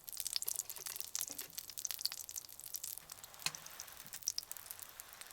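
Grilled cheese sandwich frying in a greasy pan with bacon fat: a steady sizzle peppered with many small crackles and pops.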